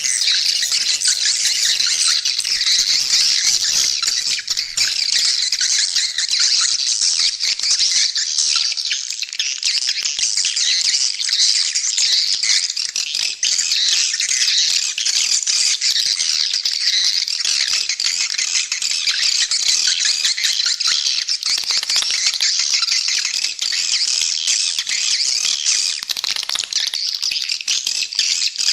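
A dense, continuous, high-pitched twittering of many edible-nest swiftlets calling at once, with no pauses. This is a swiftlet call track, played to lure swiftlets into a nest house.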